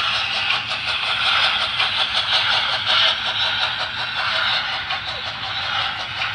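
Two HO-scale Trix model steam locomotives running in reverse on the track: a steady hissing running noise with a fast, even pulsing.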